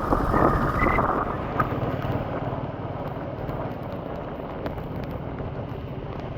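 Royal Enfield motorcycle running steadily at road speed, its engine a constant low rumble mixed with wind and road noise.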